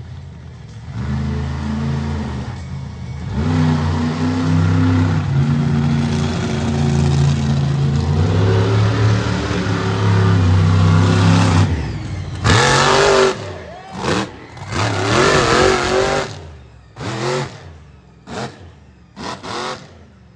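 Monster truck engine running hard and revving during a run for about twelve seconds. It gives way to a series of loud short bursts with wavering pitch that grow shorter and fainter toward the end.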